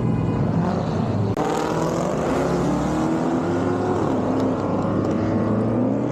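Car engines running at a car meet, the revs rising and falling a few times, with an abrupt change about a second and a half in.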